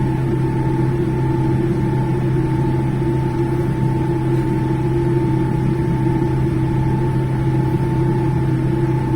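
Steady cabin drone inside a Boeing 787-10 on the ground: a low hum with a few steady higher tones over an even rush of air, unchanging throughout.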